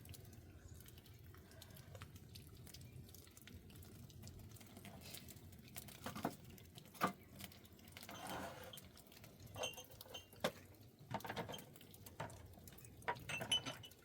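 Scattered light clinks and knocks of cooking pots and utensils being handled, with a short rustle about eight seconds in.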